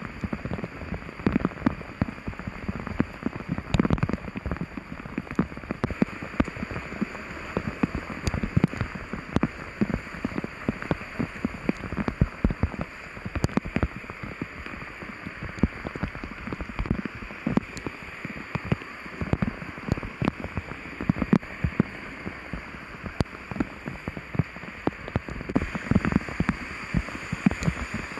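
Heavy rain pouring down: a steady hiss with many sharp drop impacts close by.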